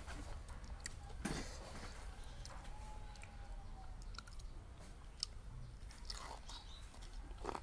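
Close-miked crunching and chewing of raw vegetables: crisp bites about a second in and again near the end, with quieter chewing between.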